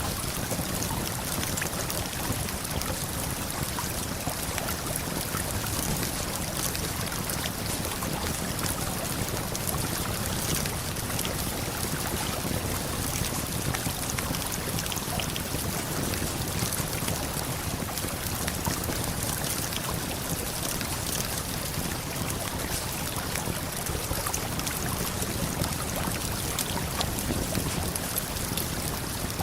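Steady rushing of a waterfall and flowing river, with faint scattered crackles from a campfire.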